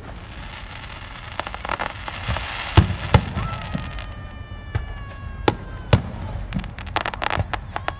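Fireworks going off: a series of sharp bangs and pops. Midway, a long whistle slowly falls in pitch over about three seconds, and a quick run of crackling pops comes near the end.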